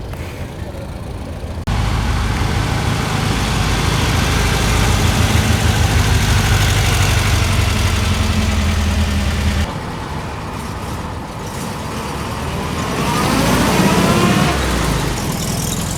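Motor vehicle engine running close by, with sudden jumps in level that sound like edits. Near the end an engine climbs in pitch.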